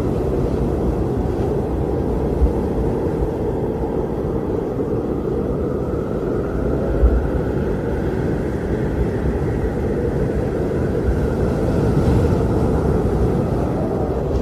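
Strong blizzard wind blowing steadily: a loud, low rushing with a faint howl that slowly rises and falls in pitch.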